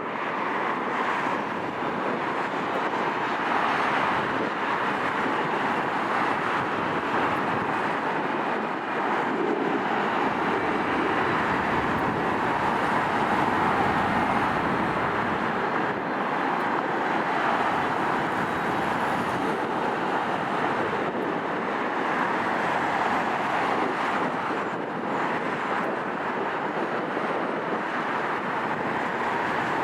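A Boeing 757-200's jet engines running at low power as the airliner taxis onto the runway to line up and wait: a steady, even noise that holds level throughout.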